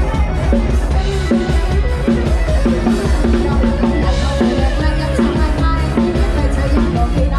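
Lam sing band playing an instrumental passage: a drum kit keeps a steady, fast beat under repeating pitched instrument lines, loud and with no singing.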